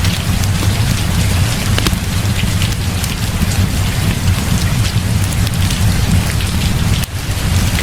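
Heavy rain falling steadily, with a continuous low rumble underneath and scattered sharp ticks of drops or crackles. There is a brief dip in level about seven seconds in.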